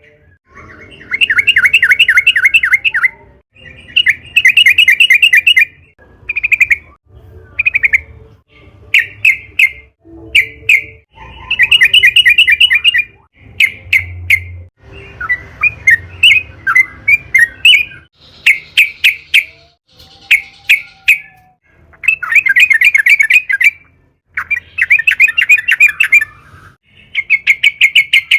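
Yellow-vented bulbul (trucukan) singing loudly and persistently: bursts of fast bubbling chatter a second or two long, alternating with short single notes, over and over.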